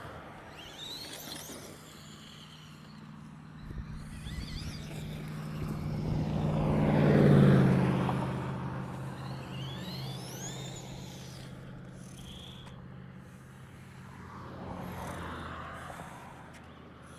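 Brushless-motor RC truck (Traxxas Stampede 2WD with a Castle 3800kV motor) driving around: short rising motor whines as it speeds up, and a swell in loudness as it comes close about seven seconds in, then fades.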